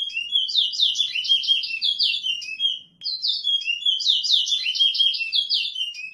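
Caged seed finch singing a fast warbling song of rapid whistled notes, in two long bouts with a short break about three seconds in.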